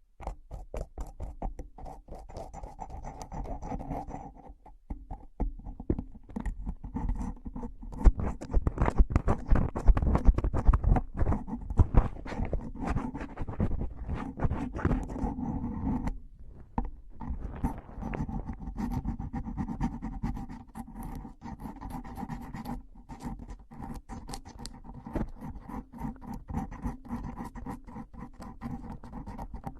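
Close-miked ASMR trigger sounds: rapid scratching and tapping, a dense run of small clicks, loudest about a third of the way in.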